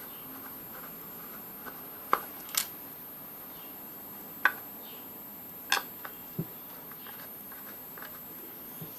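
About five short, sharp clicks and taps at irregular intervals, the loudest about two and four and a half seconds in, over a steady faint hiss.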